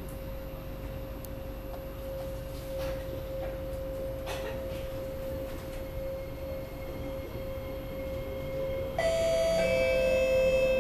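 Metro train cabin rumble with a steady high hum throughout. About nine seconds in, an electronic chime starts, the tone that comes before the next-station announcement.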